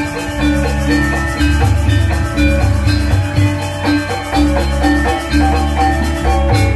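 Balinese gamelan music: metal percussion instruments ringing a quick run of notes over a deep recurring beat and drums.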